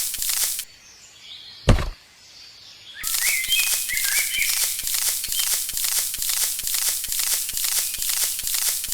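Rhythmic rasping strokes, about four or five a second, in two stretches that stop abruptly, with one loud thump between them. Birds chirp faintly.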